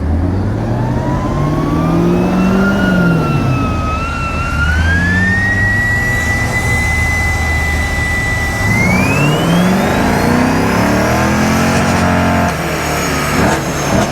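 A car run hard on a chassis dyno: the engine revs up through the gears, its pitch falling back at each shift, while a high whine climbs steadily with road speed. About twelve and a half seconds in, the engine note drops suddenly as the throttle is let off at the end of the pull.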